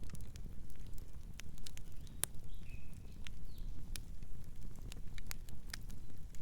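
Campfire crackling, with sharp irregular pops over a steady low rumble of the burning wood. A soft, short bird chirp comes in about two and a half seconds in.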